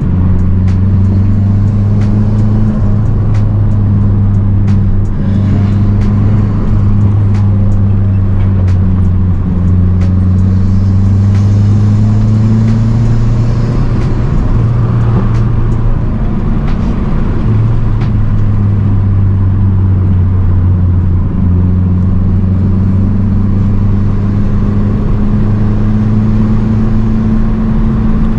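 Turbocharged 2.3-litre four-cylinder of a Mazdaspeed 3 fitted with an aftermarket intake, cat-back exhaust and race pipe, heard from inside the car while driving, its engine note climbing and dropping several times with throttle and gear changes.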